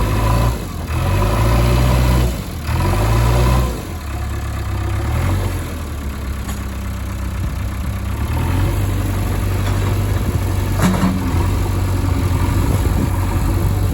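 Heavy diesel engine revving in three loud surges with short drops between, then running steadily at a lower pitch.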